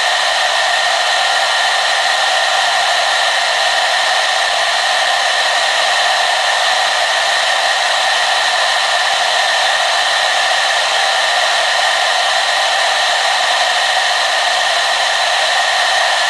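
Hair dryer running steadily on one setting, a continuous airy whir with a few fixed tones in it and little bass.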